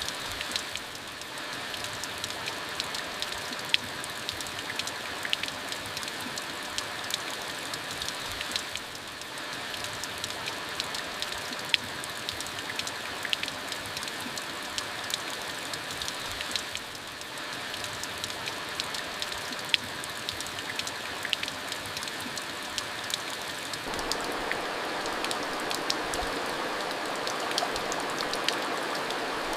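Steady rain, with individual drops tapping sharply and irregularly on a hard surface. The rain gets a little heavier about three-quarters of the way through.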